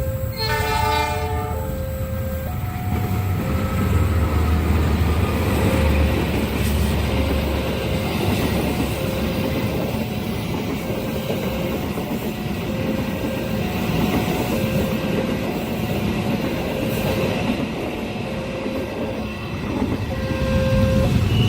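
A passenger train passing close by, with a horn blast for the first couple of seconds followed by a steady rumble and clatter of wheels on the rails. A level-crossing warning alarm keeps sounding in repeating two-note tones throughout.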